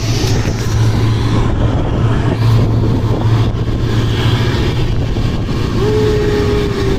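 Passenger train running, heard from an open coach door: a steady rumble of wheels on rail with wind on the microphone. Near the end a single steady horn note starts sounding.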